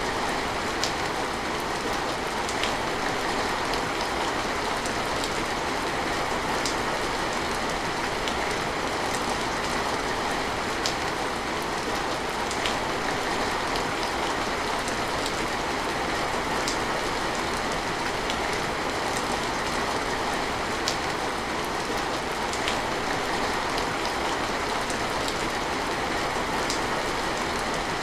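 Steady rain falling, with scattered sharper drips standing out from the even patter.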